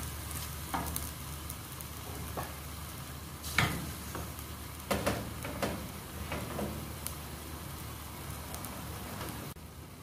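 Chicken and onion frying in a stainless steel pot, sizzling, while a wooden spoon stirs them with irregular scrapes and knocks against the pot. The sizzle drops suddenly to a quieter level near the end.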